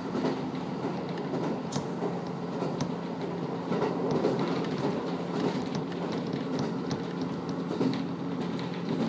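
A KiHa 54 diesel railcar running along the line, heard from inside the car: a steady engine drone under wheel and rail rumble, with scattered clicks from the track.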